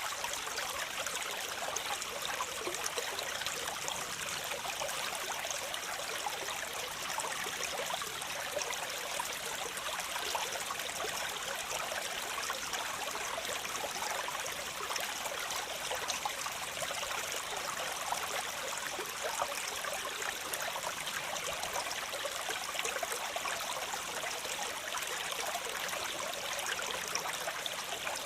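Waterfall: water pouring and splashing in a steady, even rush, bright and hissy with little deep rumble.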